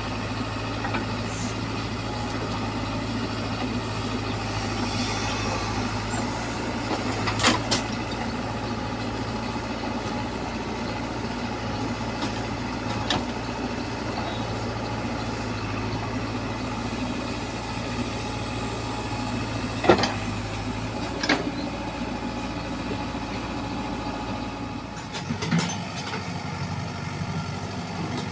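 A heavy diesel engine running steadily at idle, with a few sharp knocks. Its deepest hum drops away near the end.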